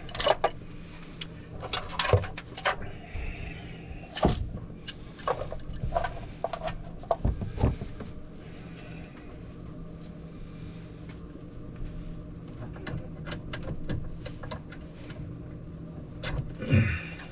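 Scattered clicks and knocks of a hand tool and metal fittings as a compression valve is fitted and tightened, over a steady low hum.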